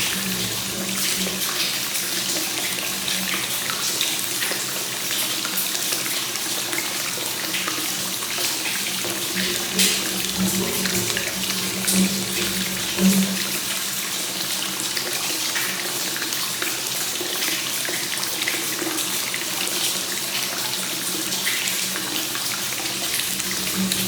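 Free-flowing hot-spring water pouring steadily into a bath and splashing, with a few slightly louder splashes about 10, 12 and 13 seconds in.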